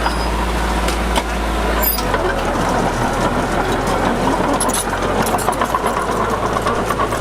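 Heavy diesel earthmoving machinery running steadily, its low engine note dropping about two seconds in.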